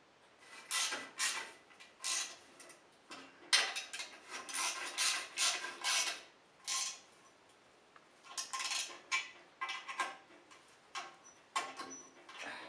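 Riding mower's mowing deck and its lift linkage being worked by hand: irregular metal clanks, rattles and creaks, in clusters with short pauses between them.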